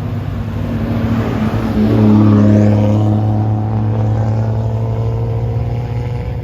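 Loud exhaust of a modified car driving past at a steady engine speed, a low rumble that swells to its loudest about two seconds in and then eases off.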